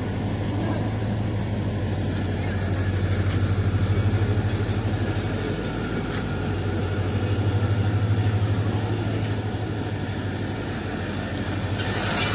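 Passenger train coaches rolling slowly past, over a steady low engine drone that swells and fades. Near the end a broad hiss comes in as the train's brakes are applied.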